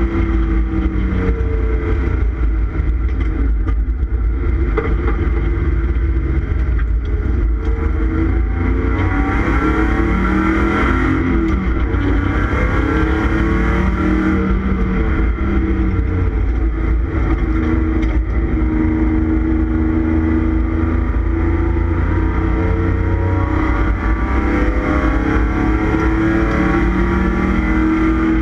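1989 Ford Taurus SHO's 3.0-litre Yamaha V6 running hard at track speed, heard from inside the stripped, roll-caged cabin over heavy road and wind noise. The engine pitch rises and falls repeatedly as the car accelerates, shifts and slows for corners.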